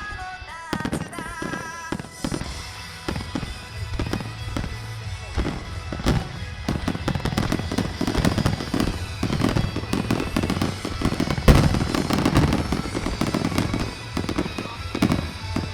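Fireworks display: a rapid, continuous barrage of shell bursts and crackling, with one boom louder than the rest about eleven and a half seconds in.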